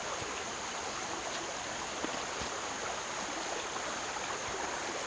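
Steady rushing of running water, with a steady high-pitched whine over it and a faint click about two seconds in.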